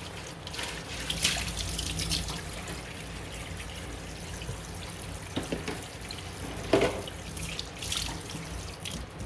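Kitchen tap running steadily into a sink, with a few short knocks and clinks.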